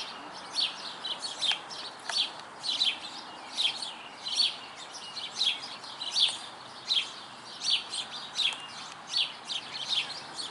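Sparrows chirping: a steady run of short, high chirps, about two a second.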